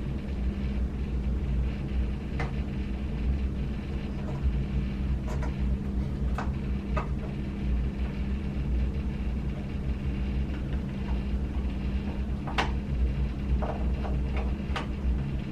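A few scattered light clicks and taps from small hard parts being handled, over a steady low electrical hum.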